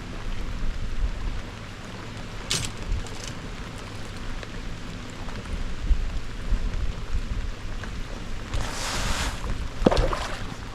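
Wind buffeting the microphone and rain on an open fishing boat, a steady low rumble with a few small clicks. Near the end comes a brief splash-like rush of noise, followed by a sharp knock.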